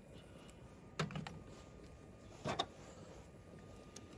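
A metal fork clinking against a cooking pot twice while stirring mashed potatoes: once about a second in, and again, louder, about a second and a half later.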